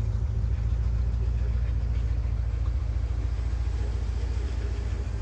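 1984 Corvette C4's Cross-Fire Injection V8 idling with a steady low rumble that sounds really good.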